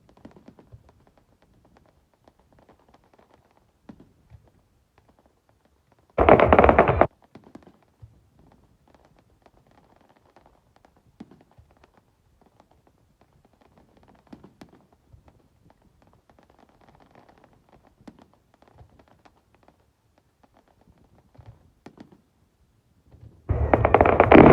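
Fireworks going off: a loud, dense burst lasting about a second some six seconds in, then faint scattered pops and crackles, and another loud burst of about a second and a half near the end.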